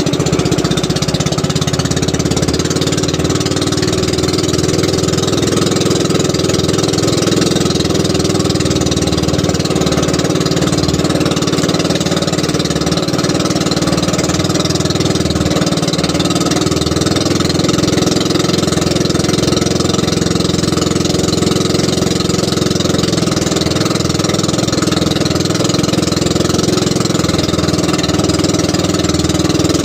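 Small fishing boat's engine running steadily at an even speed, loud and close, while trolling.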